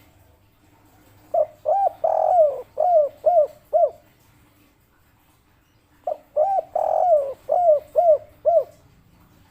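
Derkuku (spotted dove) cooing its 'kuk 3' song. It gives two phrases a couple of seconds apart, each a run of about six short rising-and-falling coos with one longer, louder coo among the first few.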